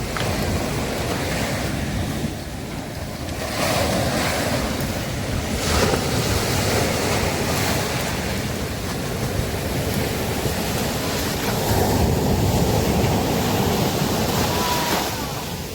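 Sea waves breaking and washing onto a beach, the surf swelling louder a few times, with wind rumbling on the microphone.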